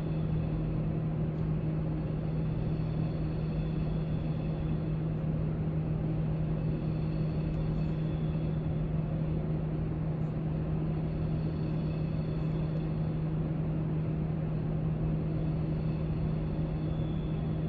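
Steady low hum of a library's background room noise, with a few faint light clicks.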